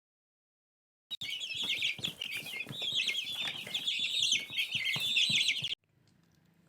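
Alexandrine parakeet chicks giving rapid, raspy begging calls while being hand-fed, starting about a second in and cutting off suddenly near the end.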